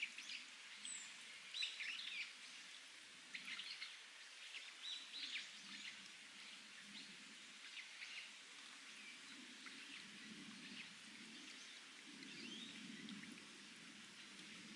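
Wild birds chirping in short high calls, busiest in the first few seconds and sparser later, over a faint steady trickle of spring water seeping from rock.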